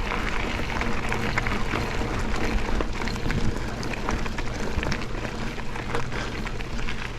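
Mountain bike rolling over a dirt and gravel trail: steady tyre crunch and low rumble with frequent small rattles and clicks from the bike, and wind on the microphone.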